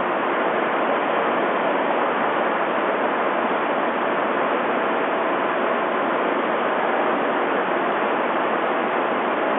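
Steady rushing air noise with a faint hum, typical of the large electric fans that blow the wind for indoor radio-controlled sailing.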